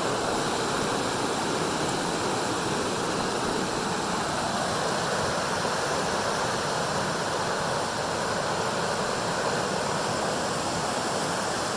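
Mountain creek rushing over rocks, a steady loud rush of water.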